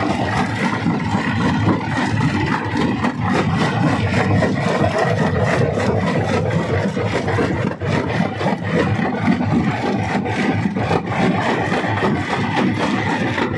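Rock crusher crushing stone: a steady grinding and scraping with many small knocks of rock breaking, over a faint steady machine hum.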